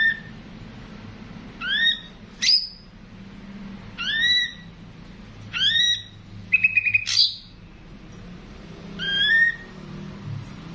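Ashy drongo calling: short rising whistled notes repeated about every second and a half, with a sharp upswept note and a quick rattling trill in the middle.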